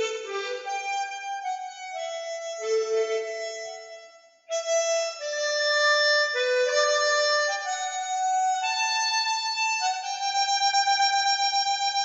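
Harmonica playing a slow melody in single held notes, with a brief break about four seconds in. Near the end it settles on a long sustained note with a rapid, even wavering.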